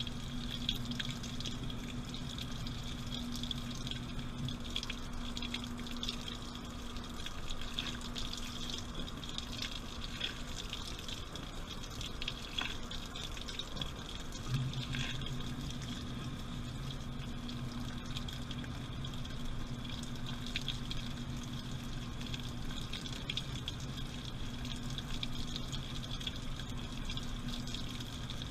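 Water running and splashing inside a washing machine drum, over the machine's steady low hum. The hum grows stronger about halfway through.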